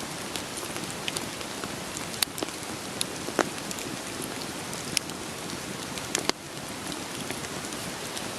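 Steady rain hiss with a wood fire crackling through it, and a few sharper pops from the burning logs. The hiss dips slightly about six seconds in.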